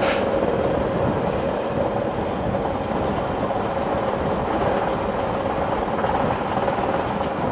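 Passenger train running at speed, heard from beside a carriage: a steady rumble of wheels on rails with a faint, even hum.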